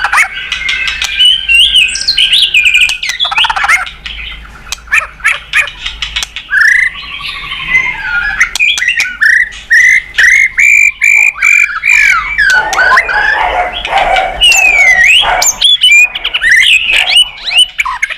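White-rumped shama (murai batu) singing continuously and loudly: a varied run of whistled phrases and glides, rapid trills and sharp clicks.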